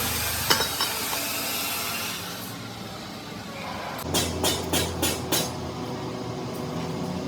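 Workshop noise: a steady hiss that fades out after about two seconds, then a quick run of about five knocks, like strikes on metal, over a low steady hum.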